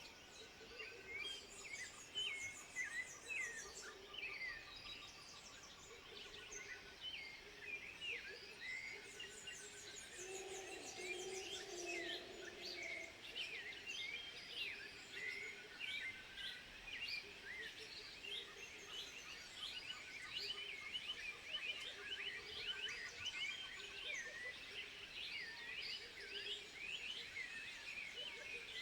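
A dense, steady chorus of many overlapping short, high chirping calls from a group of animals, with a lower, drawn-out call about ten seconds in.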